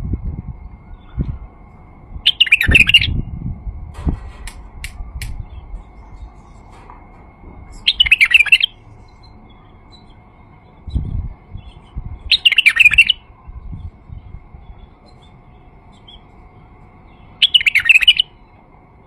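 White-eared bulbul singing: four short, bright song phrases, each about a second long, spaced roughly five seconds apart. Low dull knocks sound between some of the phrases.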